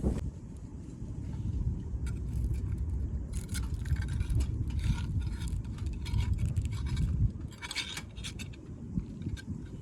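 Wind buffeting the microphone as a low rumble that dies down about seven seconds in, with scattered scrapes and clicks of handled utensils or cookware.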